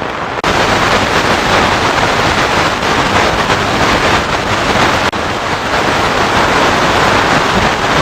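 FM radio receiver hiss: steady static with no station audible, changing abruptly about half a second in and again about five seconds in.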